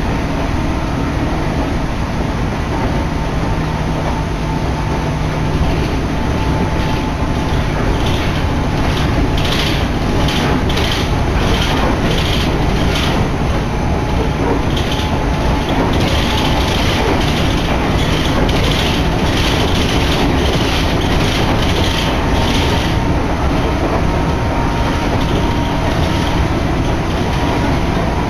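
Electric train running, heard from inside the passenger car: a steady rumble of wheels and motors, with a run of repeated clicking through the middle.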